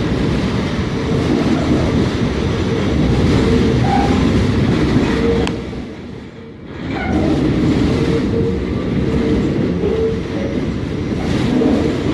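Staten Island Railway train running on the rails: a steady rumble with the clatter of wheels, dropping away for about a second around the middle before coming back.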